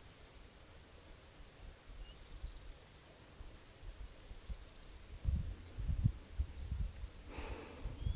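A small songbird sings a fast trill of about ten short, high, down-slurred notes about four seconds in, and starts another trill at the very end, over low rumbling that grows louder in the second half.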